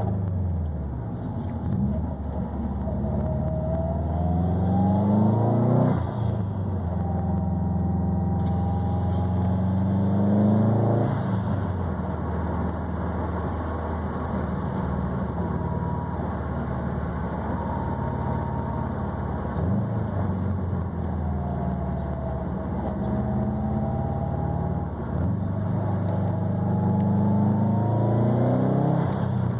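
Subaru WRX STI's turbocharged 2.5-litre flat-four running through a quiet ETS cat-back exhaust with a resonated mid-pipe while driving. The engine note climbs under acceleration and drops sharply at each gear change, about five times, with a steady cruising stretch in the middle.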